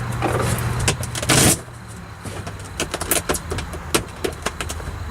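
Sound deadener sheet being handled and pressed into a car's roof: scattered crinkles and taps, with a brief loud rustle and a steady low hum that cuts off about a second and a half in.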